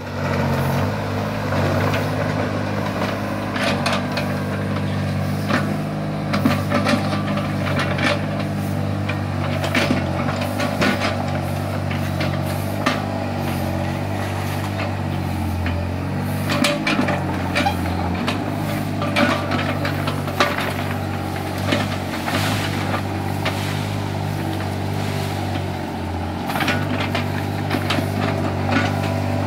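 Small excavator's engine running steadily under work, with scattered metallic clanks and knocks throughout.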